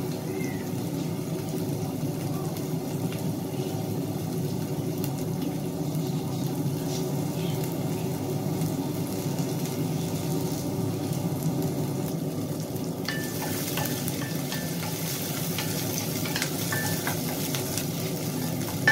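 Onions and garlic frying in a little oil in a stainless steel pan, a steady sizzling hiss. About thirteen seconds in, a wooden spatula starts stirring them, with scrapes and light taps against the pan.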